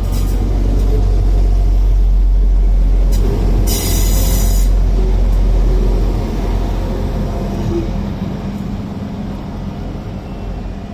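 Class 175 diesel multiple unit arriving, its diesel engines giving a loud, steady low rumble that eases off in the second half. A short burst of hiss comes about four seconds in.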